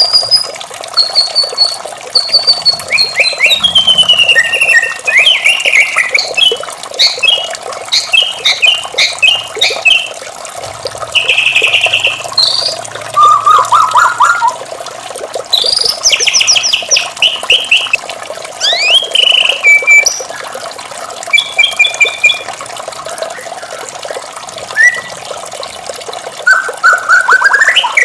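White-rumped shama singing a long, varied song of clear whistled glides, trills and rapid chattering phrases, over a steady trickle of running water.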